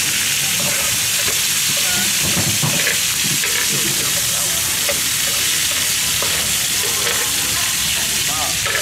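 Squid and baby octopus pieces sizzling steadily in butter on a hot griddle pan.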